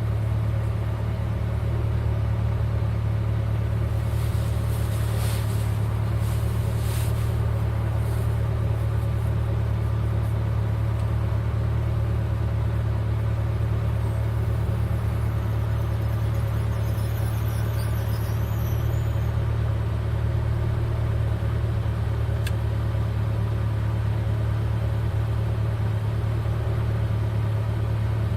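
V8 car engine running at a steady, unchanging speed with a deep even hum.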